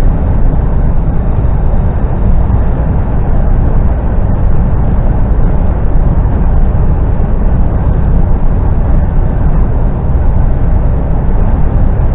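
Articulated lorry driving along, heard from inside the cab: a steady, loud low rumble of engine and road noise.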